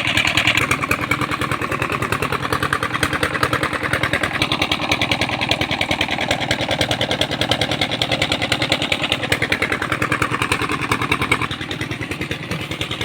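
Vehicle engine running steadily with a fast, even pulse; it eases a little about three-quarters of the way through.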